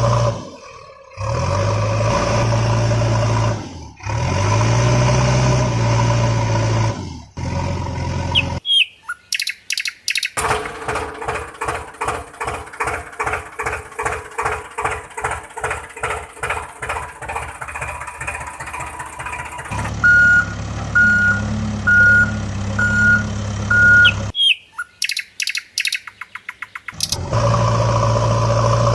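Cartoon vehicle sound effects: a steady truck engine drone broken by short gaps, then a rhythmic pulsing at about three times a second for several seconds. After that, a reversing beeper sounds five times, evenly spaced, and the engine drone returns near the end.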